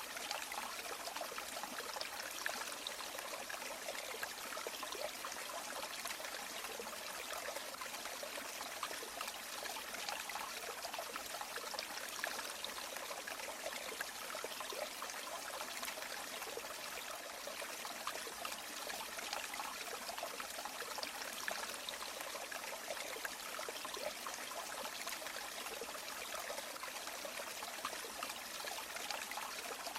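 River water flowing steadily: a continuous, even trickling rush with fine splashy detail and no pauses.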